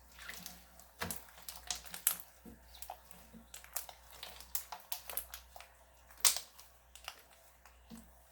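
Slime being squeezed and stretched by hand, giving irregular sticky clicks and crackles, the loudest about six seconds in.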